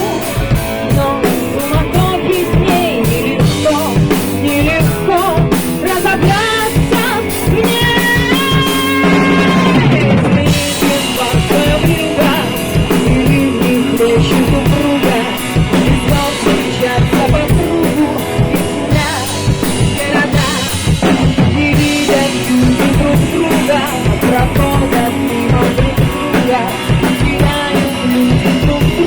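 Band playing an instrumental passage: a drum kit keeping a steady beat with bass drum and snare under a melodic guitar line, with some sliding notes partway through.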